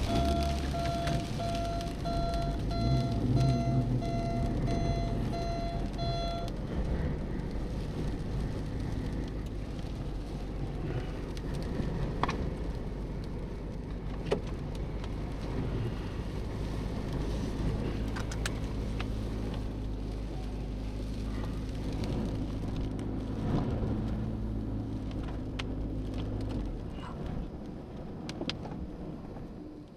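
Rain and storm noise with a vehicle engine running as a low steady hum that cuts out near the end. For the first six seconds a repeated electronic beeping chime sounds, about two beeps a second.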